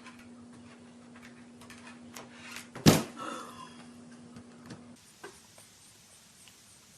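A single loud bang about three seconds in, among small knocks and clicks, over a steady low hum that stops about five seconds in.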